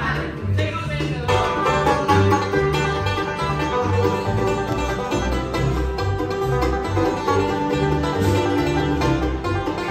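Bluegrass band playing, the banjo picking a busy lead over guitar and a bass line that steps back and forth between low notes.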